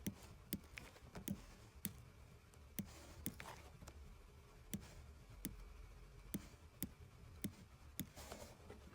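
Faint, irregular sharp clicks, about two a second, with a brief soft swishing sound about three and a half seconds in and again near the end.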